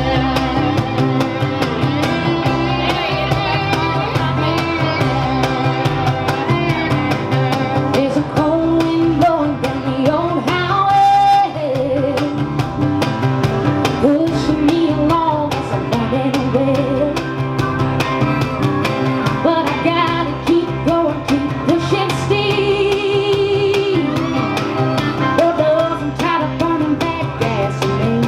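Live rock band playing: guitar, bass and drums keeping a steady beat, with a singing voice over them.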